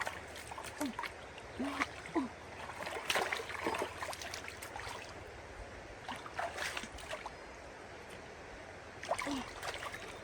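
Water splashing and sloshing in irregular bursts, as if something is being worked in shallow water.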